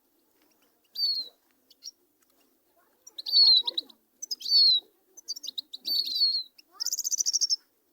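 Small caged finches singing: a few clear, high, falling whistles, then a fast buzzy trill near the end.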